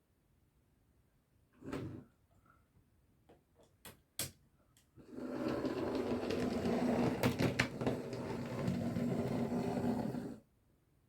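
A few sharp clicks, then a DC OO gauge model locomotive running on the track: a steady motor hum and wheel rumble with clicks over the rail joints, starting about five seconds in and stopping abruptly about a second before the end.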